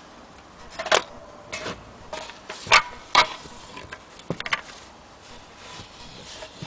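A handful of short, sharp knocks and clicks at irregular intervals, the loudest a little before the middle, with faint brief ringing tones between them.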